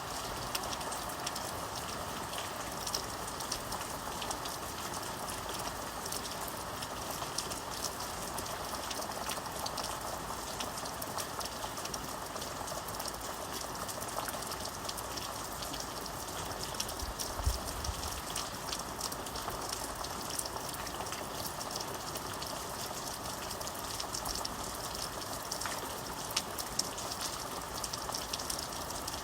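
Steady rain falling, an even hiss with many distinct drop ticks throughout. A brief low thump comes about seventeen seconds in.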